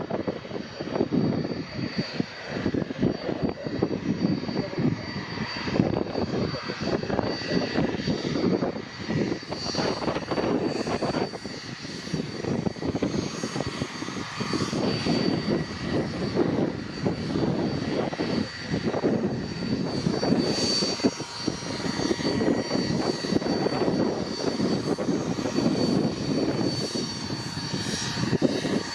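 Aircraft engine running with a steady high whine, half buried under heavy wind buffeting the microphone in gusts.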